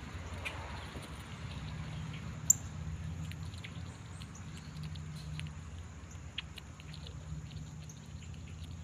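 Small rodent making scattered light clicks and taps over a low steady hum, with one sharper click about two and a half seconds in.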